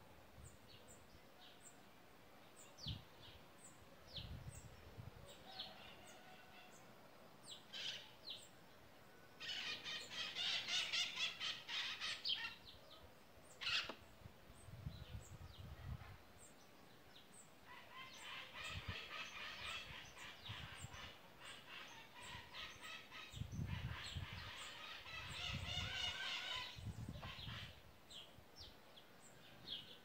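Birds calling throughout, with short high chirps and two longer stretches of louder, rapid chattering calls, one around ten seconds in and another from about eighteen to twenty-seven seconds.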